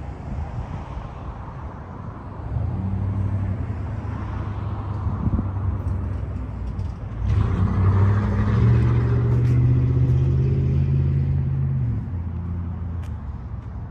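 Car engine running and pulling, its low hum picking up about two and a half seconds in, growing louder from about seven seconds and easing off near twelve seconds.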